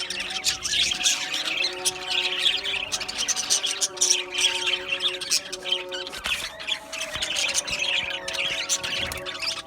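A flock of budgerigars chattering continuously, with many overlapping quick chirps, warbles and squawks.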